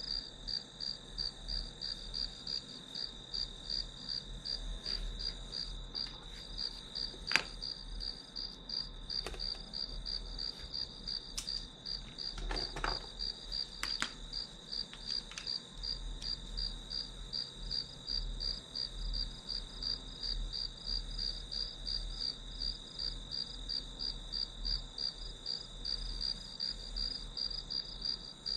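Crickets chirping in a steady, even pulse that runs on unbroken. A sharp click about seven seconds in and a few fainter taps over the next several seconds.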